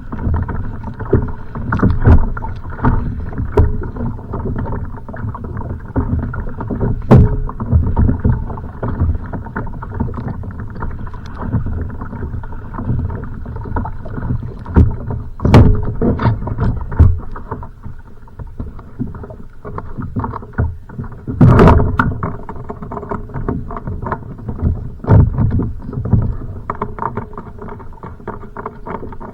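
Choppy water sloshing and slapping against a kayak's hull in strong wind, with irregular heavier thumps as waves hit the boat.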